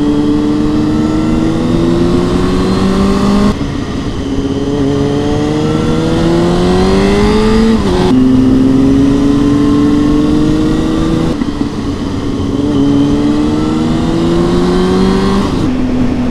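Honda CB600F Hornet's inline-four through a Mivv X-cone exhaust, pulling hard under acceleration: the revs climb steadily and then drop sharply four times, about every four seconds, at the gear changes.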